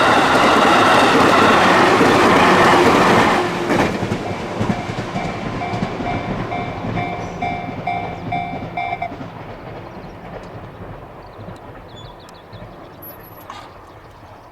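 An electric train on the JR Ryomo Line passing a level crossing, its wheels clattering over the rail joints, loud for the first few seconds and then fading away as it leaves. Under the fading train the crossing's warning bell rings at a fast, steady beat of about two to three dings a second, then stops about nine seconds in as the crossing clears.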